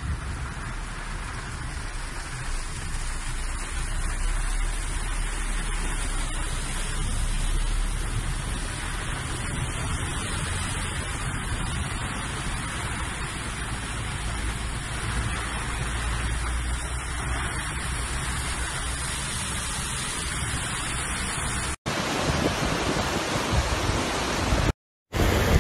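Steady rain and water noise heard from inside a moving car's cabin, with a low rumble underneath. About 22 seconds in, after a cut, a louder rush of floodwater.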